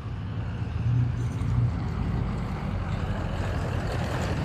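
Steady low rumble of distant engine noise, with no sudden events and no change in pitch.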